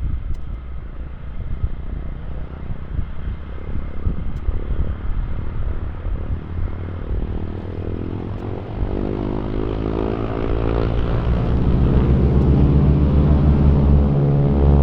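Aircraft engine noise from a departing airplane: a low rumble at first, then a droning stack of engine tones comes in about halfway through and grows louder toward the end.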